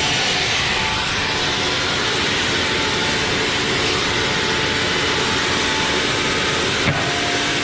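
Sawmill machinery running with a steady, loud noise and a faint whine, with one short knock about seven seconds in.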